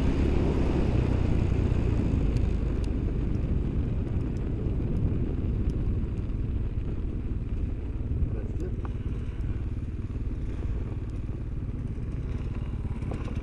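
A vehicle engine running steadily with a low rumble, easing off slightly over the few seconds.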